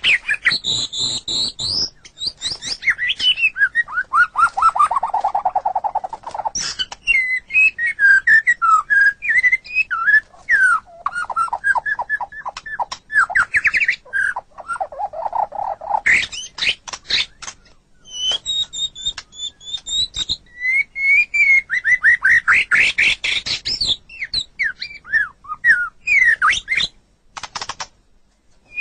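White-rumped shama singing a long, varied song of loud whistles, rapid runs of repeated notes and trills, broken by brief pauses.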